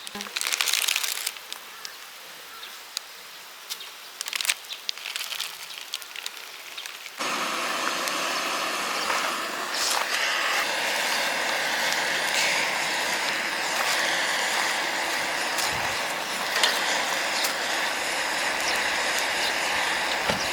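A few light clicks and handling noises, then about seven seconds in a loud, steady sizzling hiss with small crackles starts suddenly: ramen frying in a hot pan.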